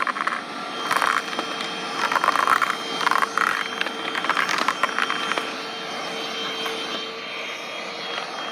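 Vacuum cleaner running with a steady motor whine, crunching and crackling in several bursts during the first five seconds as it sucks up dry debris.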